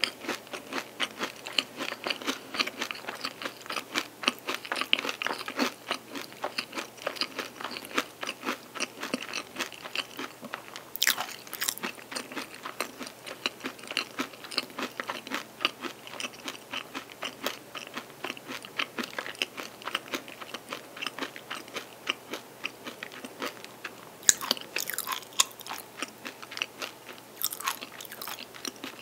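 Close chewing of a crunchy chocolate-and-almond-coated pastry stick (Sungsimdang's almond bonbon stick): a steady run of rapid crunches, with a louder crunch about eleven seconds in and several more near the end.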